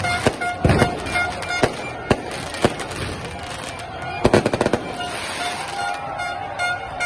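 A string of loud, sharp bangs, irregularly spaced, with a quick burst of several bangs about four seconds in, over music and a steady held tone.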